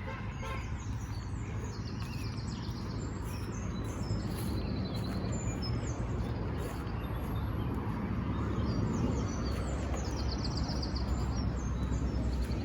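Small songbirds singing and chirping, with a rapid trill of repeated notes twice, over a steady low rumble of road traffic that grows louder near the end.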